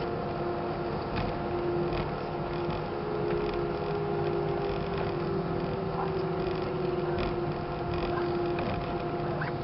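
Airbus A320-200 cabin noise while taxiing after landing: a steady hum from the idling engines and air systems, with several held tones and a few faint clicks.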